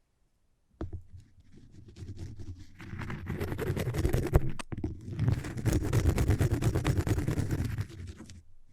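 Rapid scratching on a cork surface, starting about a second in and growing louder, with a brief break about halfway through before it resumes and fades near the end.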